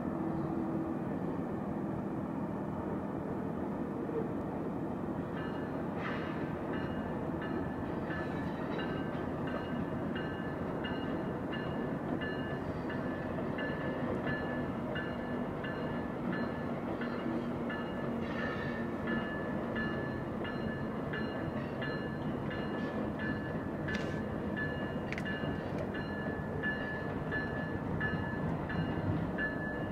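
Freight train passing at a distance, its CN diesel locomotives and cars giving a steady rumble. From about five seconds in, faint regular clicks of the wheels over rail joints come in, with a thin high ringing.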